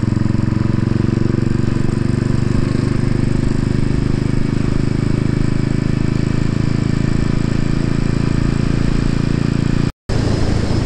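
Royal Enfield Bullet's single-cylinder engine running at a steady pitch as the motorcycle rides along. The sound drops out for a moment about ten seconds in.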